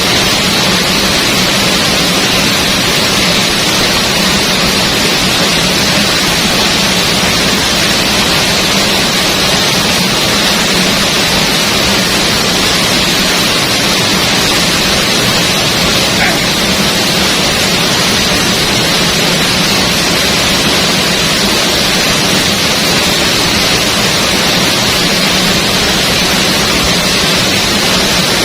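Waterfall crashing into its plunge pool: a loud, steady rush of falling water.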